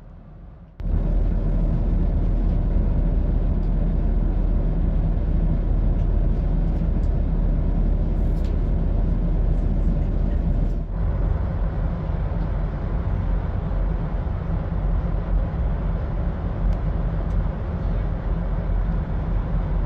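Class 170 Turbostar diesel multiple unit running with its underfloor diesel engines idling, a steady low engine drone and rumble that starts abruptly about a second in.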